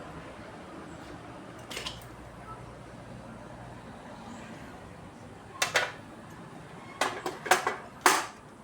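A few sharp metallic clinks and knocks, like tools or small metal parts being handled and set down on a workbench: one faint click early, then a cluster about two thirds of the way in and several more near the end, the last the loudest.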